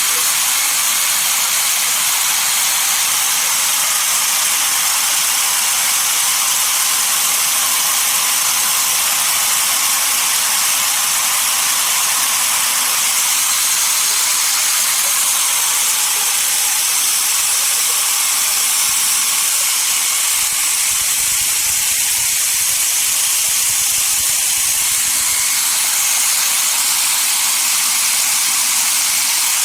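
Sawmill saw cutting through a dense desert redwood log, a steady high hiss. A low rumble joins in from about 21 to 25 seconds in.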